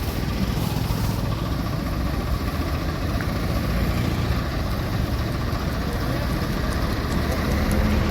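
Tractor engine running steadily, with a faint steady whine above the rumble.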